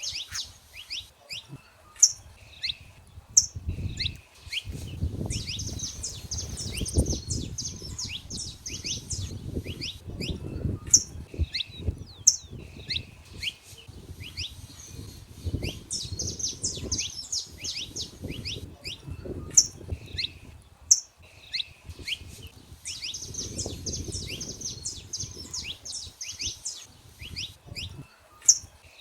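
Saffron finches singing: repeated phrases of quick high notes come again and again, broken by loud, sharp single call notes. A low rumble runs underneath.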